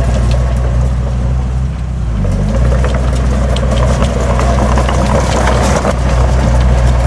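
Diesel engine of heavy earthmoving machinery running steadily. Its note dips briefly about two seconds in and then picks back up, with scattered light clicks over it.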